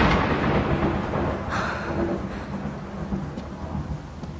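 Thunder rumbling and slowly dying away, with a brief swell about a second and a half in, over steady rain.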